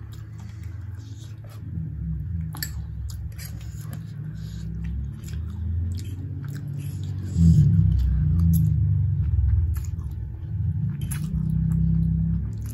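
Close-miked chewing and slurping of spicy Korean hot chicken ramen noodles, with many wet mouth clicks; it gets louder a little past halfway.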